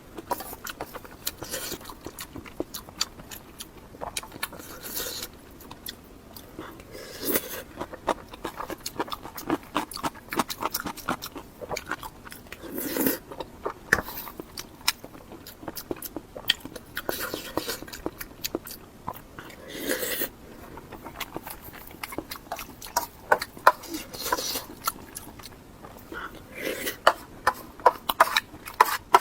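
Close-miked eating sounds: biting and chewing with wet mouth clicks throughout, and a louder burst every few seconds.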